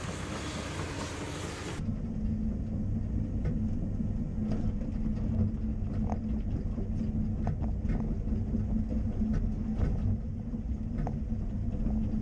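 Caterpillar 330 excavator's diesel engine running steadily, with scattered sharp clanks and knocks. A broader rushing rumble cuts off suddenly about two seconds in as the engine drone takes over.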